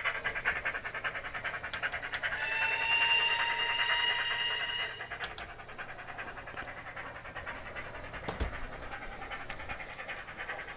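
Graham Farish SECR N class N gauge model's DCC sound decoder playing steam-locomotive exhaust chuffs in a quick, steady rhythm while the engine runs. A steam whistle sounds for about two and a half seconds, a couple of seconds in.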